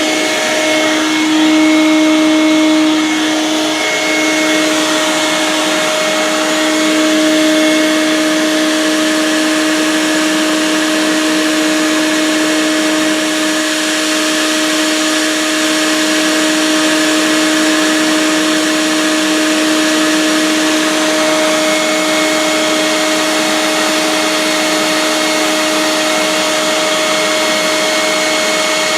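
Vacuum cleaner running steadily, its motor giving a constant whine over a rushing hiss of air.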